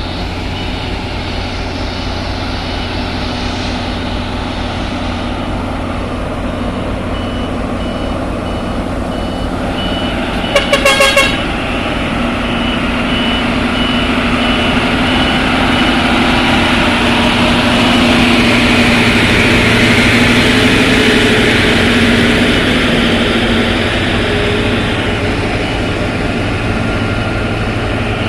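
Heavy diesel truck engine running under load on a steep climb, its drone growing louder toward the middle. About ten seconds in comes a quick burst of several horn toots.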